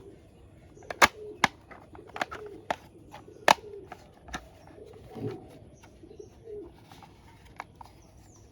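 Sharp clicks and taps of plastic toy parts being handled, the loudest about a second in and again near the middle, over faint low cooing calls.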